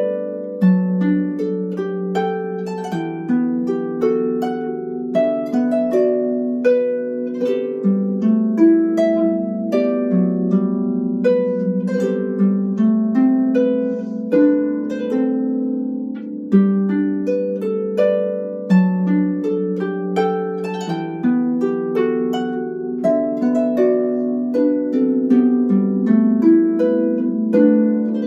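Solo harp playing a flowing melody over plucked chords, each note ringing and fading.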